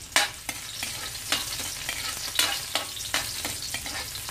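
Chopped garlic sizzling as it sautés in a stainless steel wok. A spatula stirs it, scraping and knocking against the pan in sharp strokes every half second or so, the loudest just after the start.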